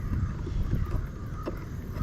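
Wind buffeting the microphone as an uneven low rumble, with a couple of light knocks.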